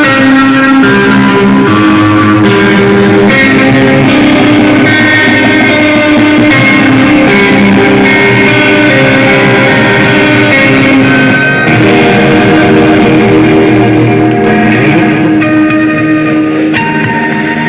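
Live rock band playing loudly: heavily distorted electric guitars with drums, with no vocals in this stretch.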